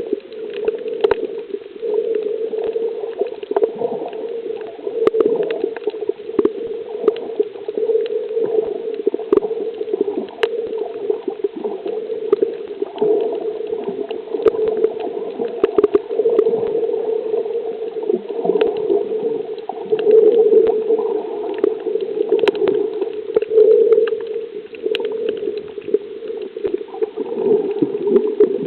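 Water sloshing and gurgling around a kayak, with scattered small splashes and knocks.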